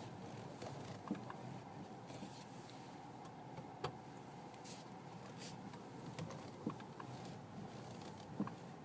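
Irregular short knocks from a BMW X3 F25's front end, several a few seconds apart over a steady vehicle noise, the louder ones about four seconds in, near seven seconds and near the end. The owner suspects a worn steering rack.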